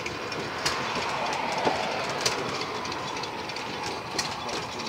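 Train carriage rolling along the track with a steady rumble of wheels on rail, and a few sharp clicks as the wheels cross rail joints.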